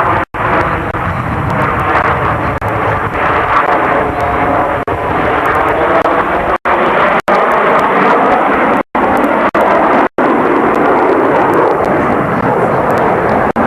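Aircraft flying past at an airshow: a loud, steady roar with tones that slide in pitch, broken by a handful of very brief dropouts in the sound.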